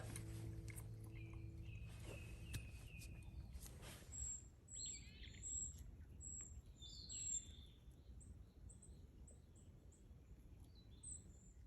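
Faint birdsong: wild birds giving a run of short, high chirps and a few quick falling calls. Background music fades out in the first few seconds.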